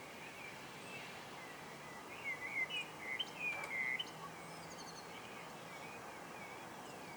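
Songbirds singing over a steady outdoor background hiss. A louder burst of quick, gliding notes comes about two seconds in, followed by softer, evenly repeated short chirps.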